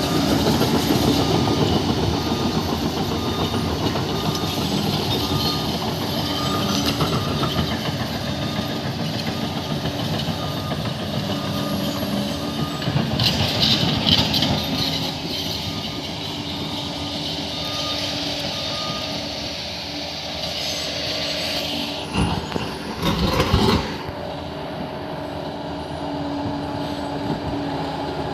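Crawler bulldozer at work: its diesel engine running steadily under load, with the steel tracks clanking as it moves. There are short louder bursts about halfway through and again near the end.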